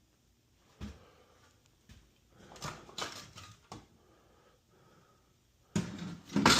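Scattered knocks and a short rattling scrape of tools and objects being handled, then a louder clatter of hard, metal-sounding items near the end.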